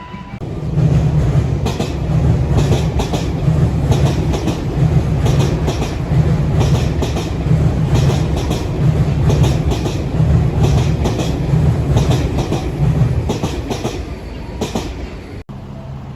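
Electric commuter train running past with a steady rumble, its wheels clattering over the rail joints in uneven clusters of clacks. The clatter fades out near the end.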